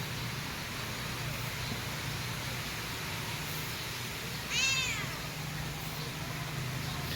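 Cat meowing once, a single short call about halfway through, over a steady background hum.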